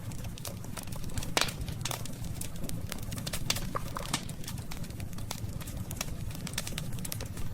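Wood fire burning with irregular sharp crackles and pops over a steady low rumble of the flames. The loudest pop comes about one and a half seconds in.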